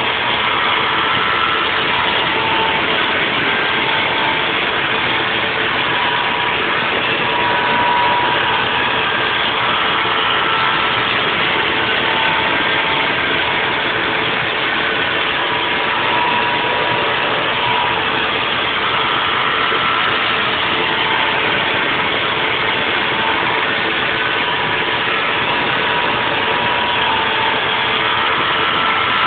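Haas VF4 CNC vertical mill cutting a 3D nest block: a steady, loud machine noise with a constant hum, and higher whining tones that come and go every second or two as the tool moves along its path.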